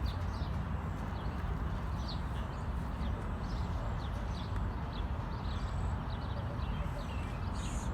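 Birds chirping, short high calls a few each second, over a steady low outdoor rumble.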